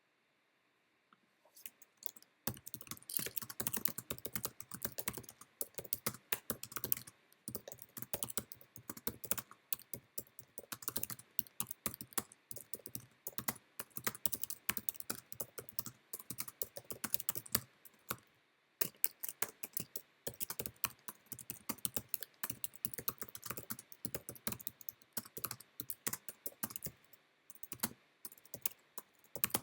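Fast typing on a computer keyboard: a steady clatter of key clicks that starts about a second and a half in, broken by a few short pauses.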